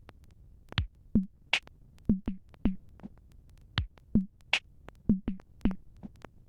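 Pocket Operator drum machine beat starting about a second in: a deep kick, a bright snare- or clap-like hit, and short low blips repeating in a slow, even pattern.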